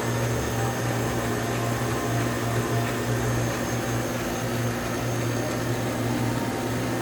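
Cheese ball forming machine running: a steady motor hum with an even mechanical whir.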